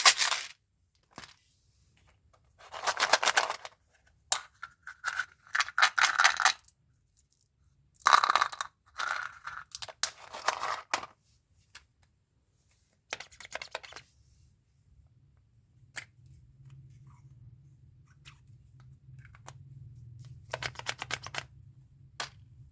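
Plastic candy wrappers being torn open and crinkled in bursts of one to two seconds, with short pauses between.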